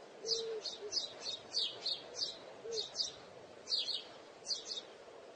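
Small birds chirping in short, quick calls, about two or three a second.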